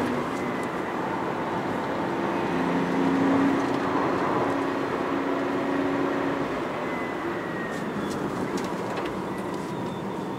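Toyota Chaser Tourer V's (JZX100) 1JZ-GTE turbocharged straight-six running under way, mixed with tyre and road noise. A steady engine tone swells slightly a few seconds in, then eases off gradually.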